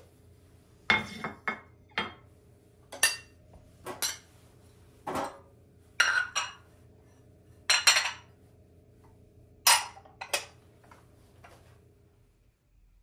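Dishes and cutlery clinking and clattering, about a dozen separate knocks roughly a second apart, over a low steady hum that stops near the end.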